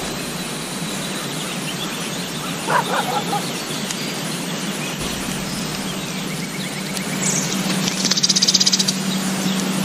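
Farm ambience: a steady background noise with a short animal call about three seconds in and a fast, high-pitched bird trill near the end.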